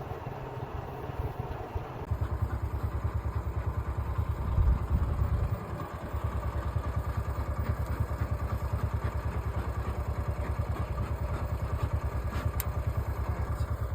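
A motor or engine running steadily with an even, rapid low throb, swelling louder for about a second near the middle.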